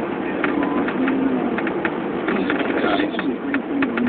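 Running noise inside a Chevy 2500 pickup's cab while plowing snow: a steady low, wavering hum with scattered short clicks.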